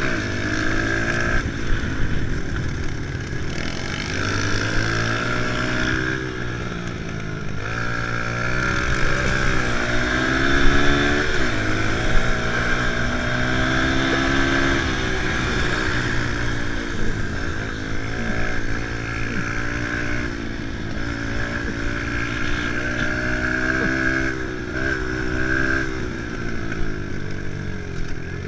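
Kawasaki KLX110 pit bike's small single-cylinder four-stroke engine being ridden hard, its pitch rising and falling again and again as the throttle opens and closes.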